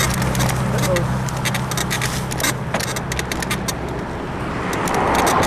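Bicycle rattling and clicking over rough sidewalk, an irregular run of sharp clicks and creaks; the uploader puts the creaking down to a worn suspension bushing in the frame. A low traffic engine hum stops about two-thirds through, and passing traffic swells near the end.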